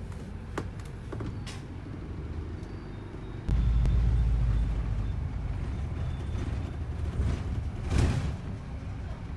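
London bus engine and road rumble heard from inside the bus. The rumble jumps louder about three and a half seconds in as the bus pulls away, with a few clicks early on and a short hissing burst near the end.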